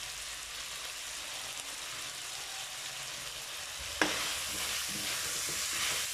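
Beef cubes with garlic and onion sizzling in oil in an aluminium wok, a steady hiss. About four seconds in a ladle knocks against the wok and stirring begins, with scraping and louder sizzling.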